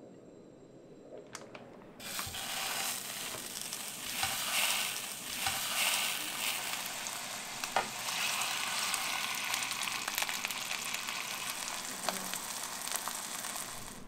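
Chicken sausages frying in hot oil in a nonstick pan: a steady sizzle with fine crackling that starts suddenly about two seconds in. One sharp click sounds a little past halfway.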